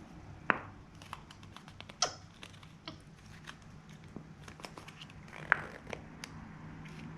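Paint tins and lids being handled while a two-part primer is made up: scattered light clicks and knocks, with three sharper knocks about half a second in, at two seconds and at five and a half seconds.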